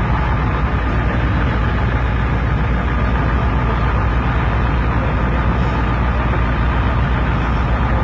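Steady drone of heavy engines running, a constant low rumble with a faint steady tone above it and no change throughout.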